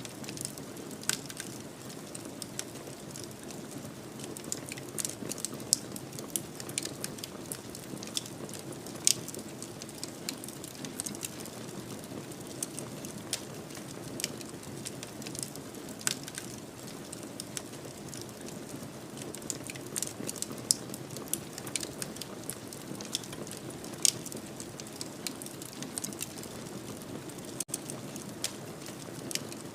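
Fireplace fire crackling: irregular sharp pops and snaps over a steady low rushing of the flames.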